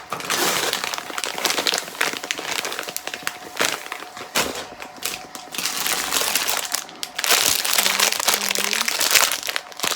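Plastic sweet packets crinkling and rustling as they are handled and packed, with irregular crackles throughout.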